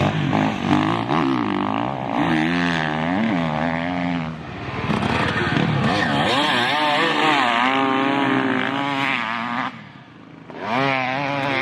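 Motocross dirt bike engine revving, its pitch rising and falling again and again as the rider works the throttle through the gears. The sound drops away briefly about ten seconds in, then picks up again.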